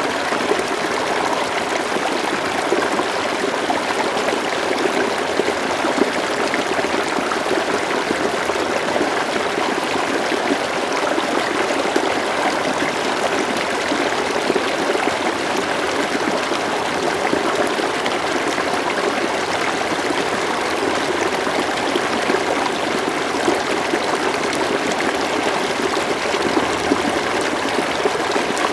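A river flowing steadily, with even burbling and trickling of water.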